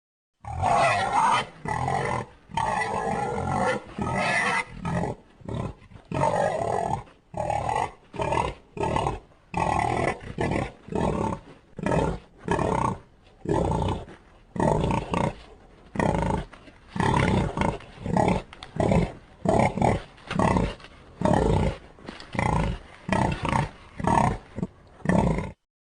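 Synthesised prehistoric-mammal calls: a quick run of short, rough roars and grunts, about one a second, made by blending wild boar, elephant and other animal recordings to stand in for the extinct Pyrotherium.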